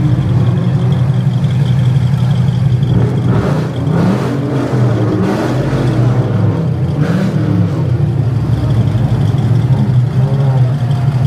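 Car engines running at a car meet, with a few short revs between about three and seven seconds in, over a steady low hum and faint crowd voices.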